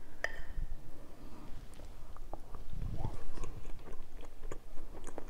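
A person chewing a bite of soft glazed pound cake, with small faint mouth clicks scattered throughout.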